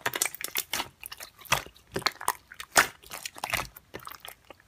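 Slime being squeezed and poked by hand, giving irregular crisp crackles and clicks.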